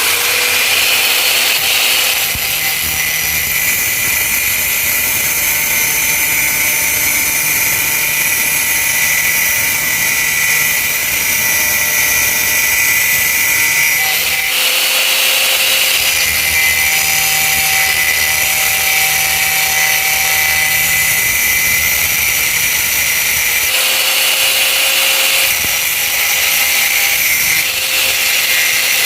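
A Mitsushi 1000 W angle grinder's cutting disc cutting through a rusty steel bar: a steady high whine with grinding hiss. Its note changes briefly about halfway through and again near the end.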